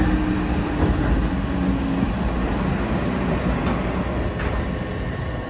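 Electric railcar of the Eizan Railway's 'Hiei' sightseeing train running along the track, heard from inside at the front: a continuous rumble of wheels on rail with a low motor hum that fades out about two seconds in. Two sharp clacks from the wheels come about four seconds in, and a faint high whine begins near the end.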